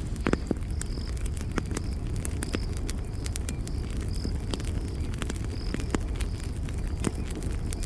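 Campfire burning with a steady low rumble and frequent sharp crackles and pops, one louder pop about a third of a second in. A night insect chirps in short, high, repeated pulses over it, a few times a second.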